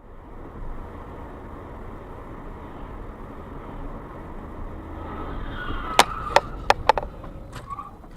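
Car driving, heard through a dashcam: steady engine and road noise. About six seconds in come four sharp knocks in quick succession, with a brief high tone around them.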